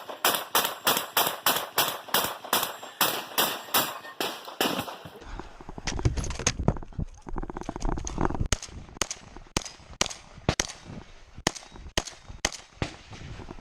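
Rapid semi-automatic gunfire, an even string of about four shots a second. About five seconds in it gives way to slower, irregular shots over a low rumble.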